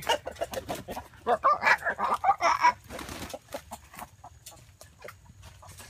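Chicken clucking and squawking in a rapid run of short calls over the first three seconds, then only faint scattered clicks.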